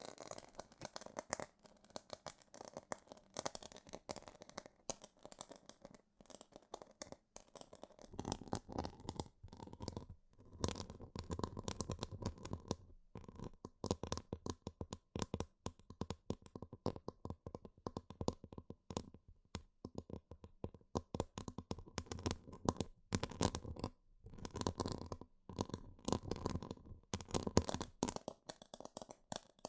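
Close-miked ASMR trigger sounds: a dense, irregular run of scratching, rustling and crinkling, growing fuller and heavier about a quarter of the way in.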